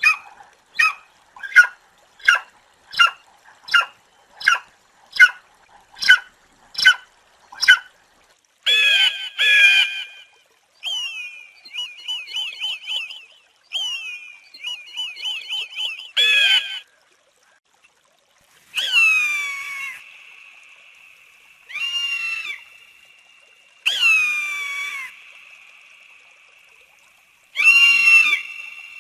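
Eagle calling: a run of short, evenly spaced high calls about one to two a second for the first eight seconds, then longer harsh calls broken by rapid chattering trills, and in the second half several long screams that fall in pitch and fade away slowly.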